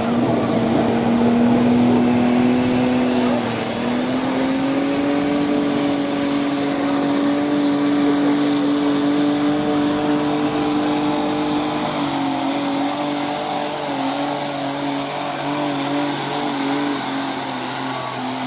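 Garden tractor engine running hard at high, steady revs while pulling a weight sled. Its pitch steps up slightly about four seconds in, then wavers and dips a little from about twelve seconds on.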